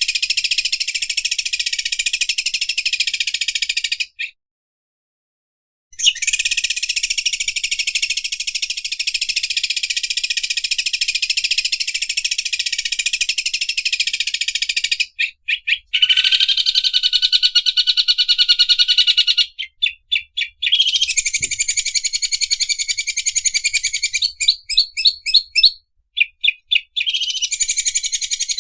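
Cucak ijo (green leafbird) singing in its 'ngobras' style: a fast, buzzy, high-pitched rattling trill like an overlock sewing machine running. It cuts out abruptly for about two seconds early on, then resumes, breaking into short stuttering bursts in the second half.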